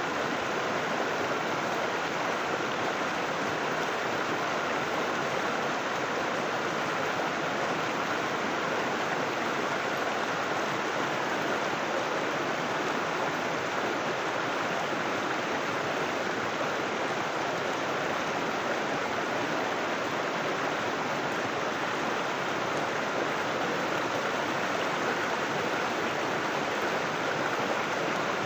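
River water flowing and rushing over rocks in a steady, unbroken wash.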